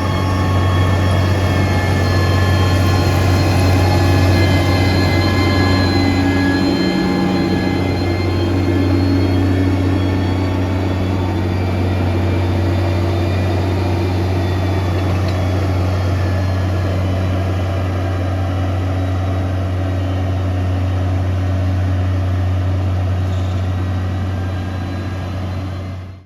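Heavy construction machine's engine running steadily under load, a deep continuous drone with a faint whine above it, fading out at the very end.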